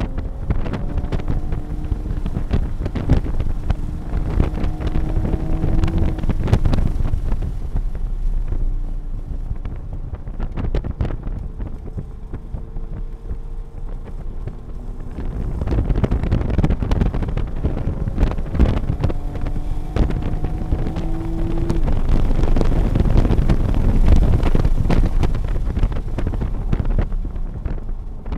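Toyota A90 Supra engine pulling hard at high revs, heard from inside the cabin over heavy wind and road noise. Its pitch climbs for the first several seconds and breaks off suddenly, then climbs again and breaks off about two-thirds of the way through.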